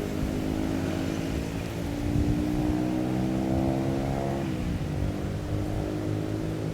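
An engine running and slowly rising in pitch, then dropping sharply about four and a half seconds in and running on steadily, like a gear change.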